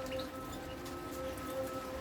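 Canaries in a breeding cage: a few faint short chirps and light clicks and taps of birds moving on the cage, over a steady hum.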